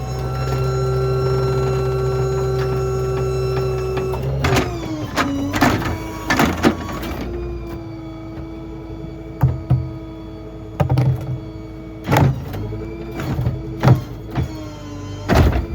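Small rear-load garbage truck's hydraulic packer running: a steady whine that changes pitch about four seconds in and sags briefly with each of several clunks and bangs as the load is worked.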